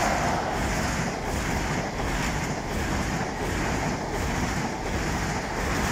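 HST (InterCity 125) passing at speed: a steady rush of wheel and air noise from its coaches, with a faint regular pulsing as the bogies go by.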